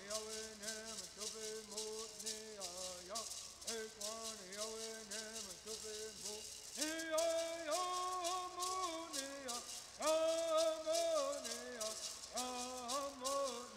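Native American bird singing: a group of voices singing in unison over rattles shaken in a steady, quick beat. About seven seconds in the song jumps to a higher, louder phrase, and it does so again about ten seconds in.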